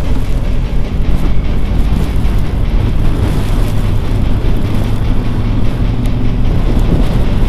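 Triumph Tiger 1200 motorcycle's three-cylinder engine running at a steady cruise under heavy, steady wind rush on the camera microphone.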